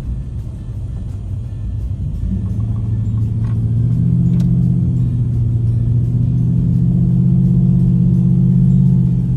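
Low rumble of a motor vehicle running. About two seconds in, a steady engine drone comes in and grows louder, then cuts off suddenly at the end.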